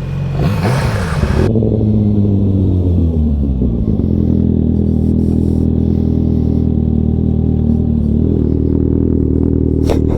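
Inline-four sportbike engine dropping in revs as the bike slows, with wind noise that cuts off about a second and a half in, then running at a steady low speed. There is a single click near the end.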